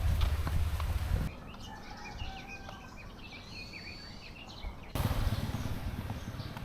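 Several small birds chirping and calling in short rising and falling notes during a quieter stretch. Before and after it the sound cuts abruptly to louder, steady low rumbling noise.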